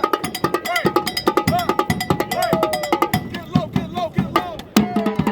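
Fast, steady drumming with many rapid hits. Short pitched tones bend up and down among the beats, and a sharper hit comes near the end.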